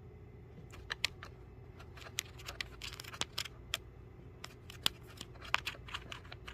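Irregular sharp clicks and short crackles of small objects being handled close to the microphone, starting about a second in and dying away near the end, over a low steady hum.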